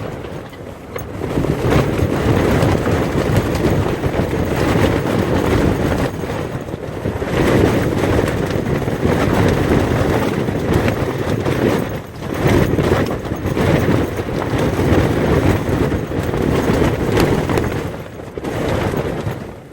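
Strong desert wind storm, rising and falling in gusts and buffeting the microphone with a deep rumble, with brief lulls about a second in and again around twelve seconds in.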